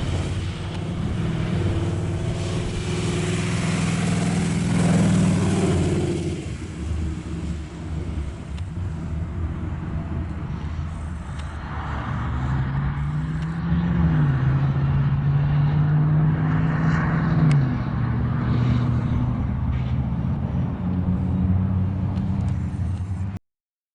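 Big-block 396 V8 crate engine of a 1965 Chevy II Nova running and being revved. It climbs in pitch and falls back about five seconds in, then climbs again, holds for a few seconds and drops back. The sound cuts off abruptly near the end.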